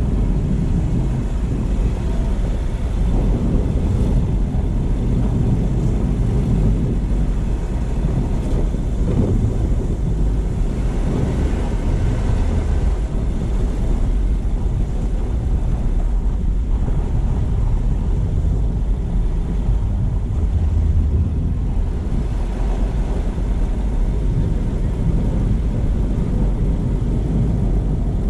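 Car driving along at steady speed: a continuous low rumble of tyre and engine noise.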